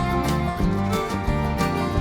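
Background music: an upbeat country or bluegrass-style tune with plucked acoustic guitar and a steady beat.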